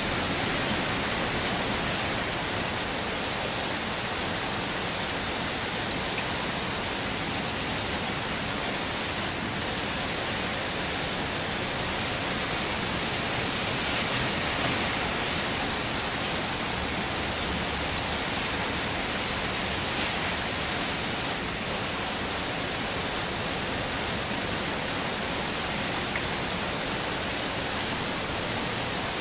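Heavy rain falling steadily in an even hiss, with two brief dips in level, one about a third of the way in and one about three-quarters of the way in.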